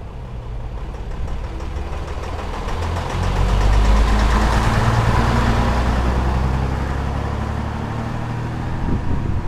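Vintage Scania-Vabis Torpedo truck's diesel engine running at a steady pitch. It grows louder about three seconds in, then slowly fades as the truck goes by.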